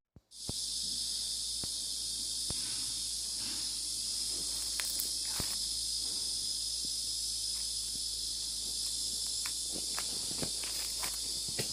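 Steady high-pitched insect chirring, like a cricket trill, with scattered light clicks and taps.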